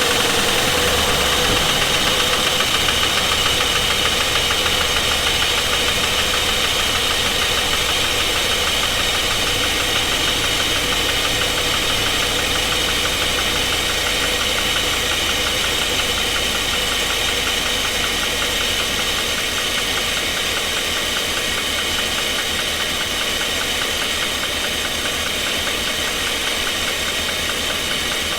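GMC Sierra 2500's 6.0-litre V8 idling steadily with a valve cover off and that bank's injectors unplugged, the exposed valvetrain ticking fast and evenly. A knock runs through it that the owner cannot place, wondering whether it is a lifter or a rod or main bearing and leaning towards the lower end; some pushrods are not bringing oil up to the rockers.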